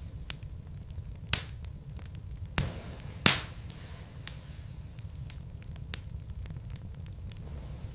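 Wood burning in a fireplace and crackling, with sharp irregular pops and snaps over a low steady rumble. The loudest snap comes about three seconds in.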